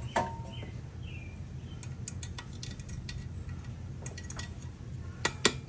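Hammer tapping a stuck part out of a Coleman CT200U minibike engine: scattered light metallic taps and clicks, then three sharp strikes in quick succession near the end, over a low steady hum.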